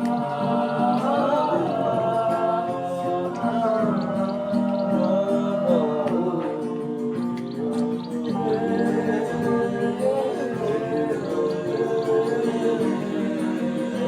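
Gospel worship music: a singer's voice in long, gliding notes over steady sustained keyboard chords with guitar.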